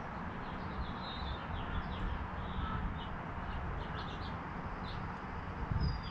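Small birds chirping, many short high calls scattered throughout, over a steady low rumble. A brief low bump comes near the end.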